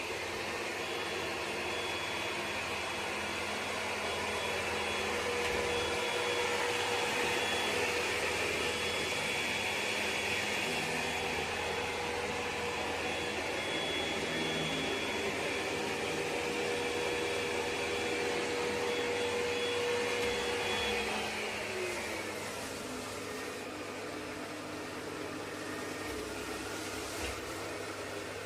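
ECOVACS DEEBOT X9 Pro Omni robot vacuum running with a steady whir and a high whine. About 21 seconds in, the whine falls in pitch as a motor slows down, and the sound becomes a little quieter.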